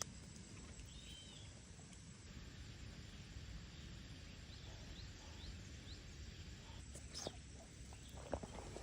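Faint outdoor background noise, low and steady, with a few faint short high chirps midway and a couple of small clicks near the end.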